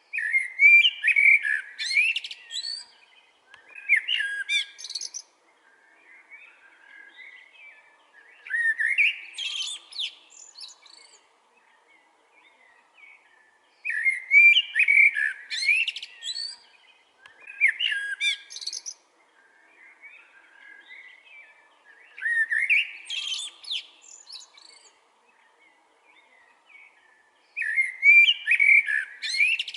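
Blackbird singing: repeated song phrases, each a warbling run followed by a high twitter, with a pause of a few seconds between phrases, about seven in all.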